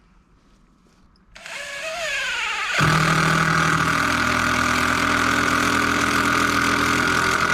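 A motor starts with a whine rising in pitch, then runs loud and steady with a constant hum until it cuts off near the end.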